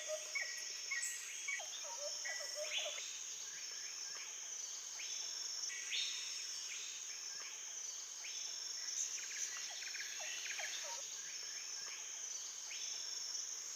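Rainforest ambience: a steady high-pitched insect drone with repeated short rising bird chirps and a few lower whistled bird calls.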